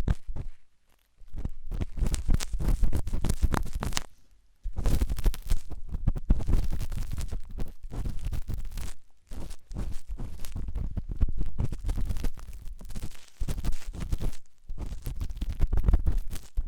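Ear-cleaning ASMR: a tool scratching and scraping hard in a microphone's ear, in dense rapid strokes with a deep rumble. Short pauses fall about a second in and near four and a half seconds.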